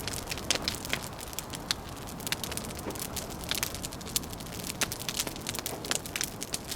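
Wood fire crackling, with many irregular sharp pops and snaps over a steady low wind.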